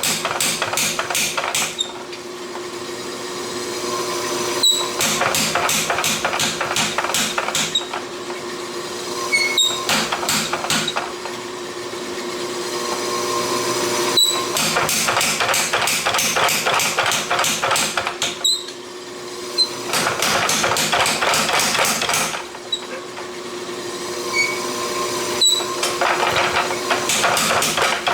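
Hand hammer striking hot steel on an anvil while forging a small sword blade, in runs of quick blows with short pauses every few seconds between them. Some blows ring sharply, and a steady hum runs underneath.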